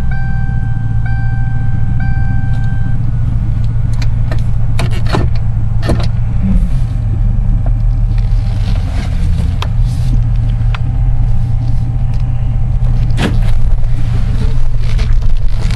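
1999 Lincoln Town Car's 4.6-litre V8 running through its stock exhaust with a low, steady rumble as the car is moved slowly. A warning chime beeps about once a second for the first three seconds, and a few sharp knocks come about five, six and thirteen seconds in.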